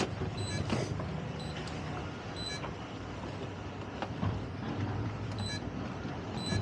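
Towboat engine running steadily with a low hum, under wind noise. Short faint high beeps recur about once a second.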